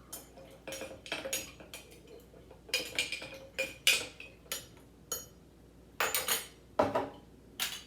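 A string of irregular clinks and knocks of glass jars and kitchen utensils as pickles are moved from one jar into another.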